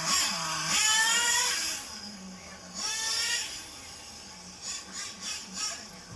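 RC truck's motor whining up in pitch in throttle bursts: a long rise about a second in, another near three seconds, then four quick blips around five seconds.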